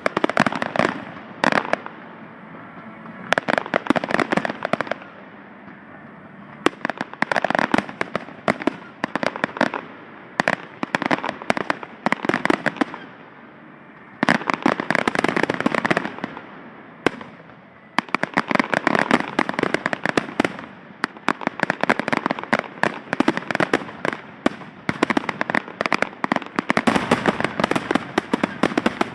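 Fireworks crackling: clusters of rapid pops and bangs, each lasting a second to a few seconds, going off again and again with short quieter gaps between.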